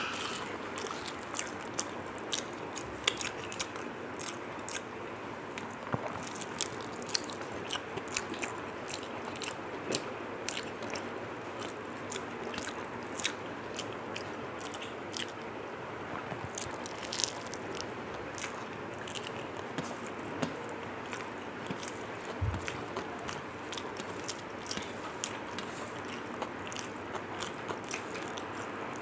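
Close-up chewing and mouth sounds of someone eating rice and curry: many short wet clicks and smacks, irregularly spaced, over a steady hiss.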